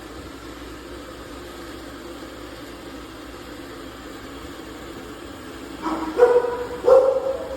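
AIRROBO T20+ robot vacuum running with a steady hum, then two loud barks from a dog about a second apart near the end.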